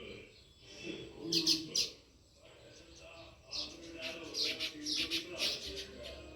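House sparrows chirping: three quick chirps about a second and a half in, then a busier run of overlapping chirps from about three and a half seconds on.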